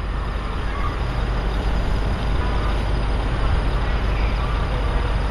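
Steady low rumble of vehicle engines running, with no clear rhythm.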